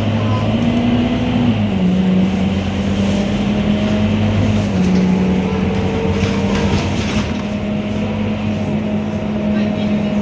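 Scania K230UB city bus running under way, a steady engine drone whose note steps down about one and a half seconds in and again near five seconds, then holds.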